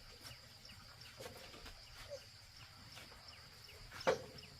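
Faint rural ambience: a steady high insect drone with small chirps repeating, and one brief sharp sound about four seconds in.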